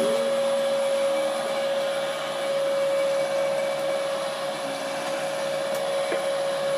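Canedy-Otto Royal 18 drill press running steadily on its first start-up, its motor fed by a VFD at about half speed: a constant whine with belt and pulley whir.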